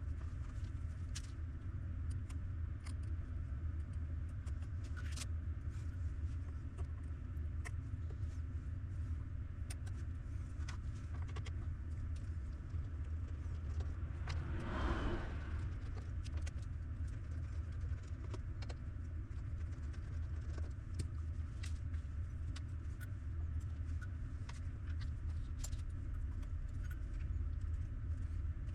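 Scattered light clicks and taps of handling a small plastic device, over a steady low hum, with a brief louder rustle about halfway through.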